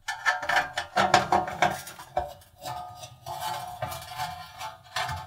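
Screwdriver working the screws out of the metal back panel inside an oven cavity: irregular metallic clicks, clinks and scrapes with a ringing metal tone.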